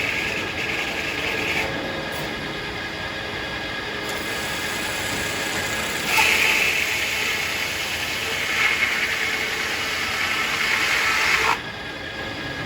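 Circular sawmill running steadily, the saw going through hackberry. A louder, higher-pitched stretch from about six seconds in cuts off abruptly near the end, typical of the blade in the cut and then coming out of the log.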